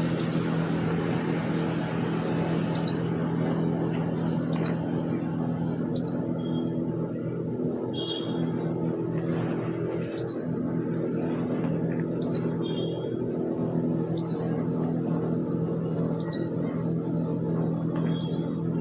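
A bird repeating a short, high chirp about every two seconds, some chirps followed by a brief buzzy note, over a steady low hum.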